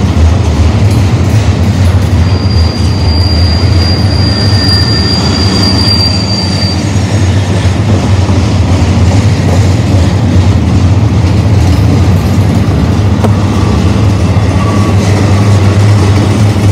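Double-stack intermodal container train rolling past: a loud, steady rumble of wheels on rail. About two seconds in, a high, steady squeal joins it and lasts roughly four and a half seconds.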